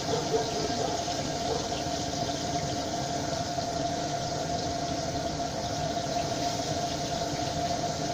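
Pieces of crucian carp sizzling steadily in hot oil in a frying pan, over a constant high-pitched whine.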